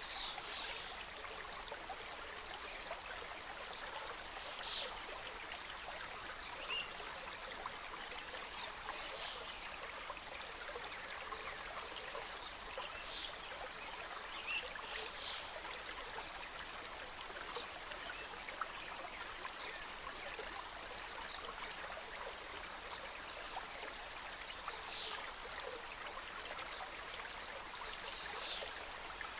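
Mountain stream cascading through a forest, a steady rush of water with short higher splashes standing out now and then.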